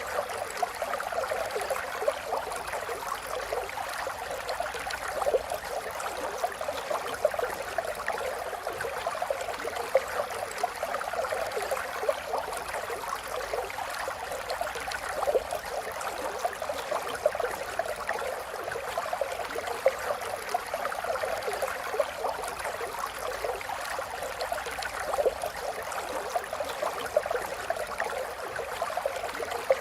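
Flowing water babbling steadily, with a constant patter of small splashes and gurgles.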